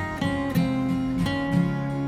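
Background music: acoustic guitar strumming chords, the chords changing about every half second.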